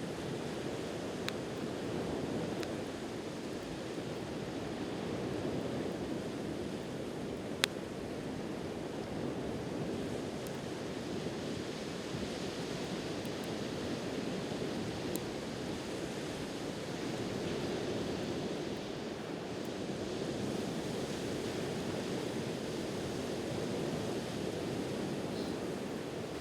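Steady wash of ocean surf, swelling and easing gently, with a wood campfire giving a few sharp pops, the loudest about seven seconds in.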